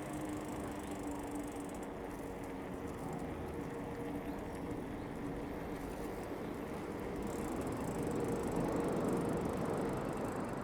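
Outdoor city ambience: a steady rush of distant traffic and rolling noise, with a faint hum early on, growing louder from about seven seconds in.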